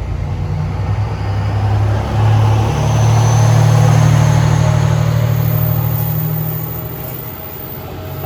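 Diesel railcar's engine running with a deep steady hum, growing louder about three seconds in and easing off toward the end as the railcar moves.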